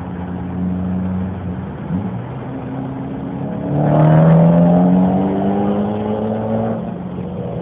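Turbocharged Nissan 240SX engine, heard from inside the car, pulling hard at full throttle. The note climbs steadily in pitch after a gear change about two seconds in, and eases off near the end.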